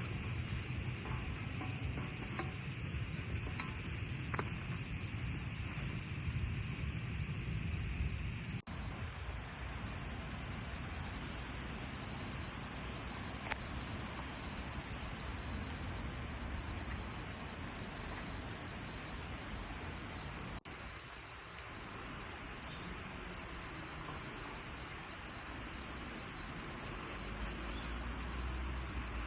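Autumn crickets chirping in long, high trills, loudest for the first ten seconds or so and again briefly about three-quarters of the way through.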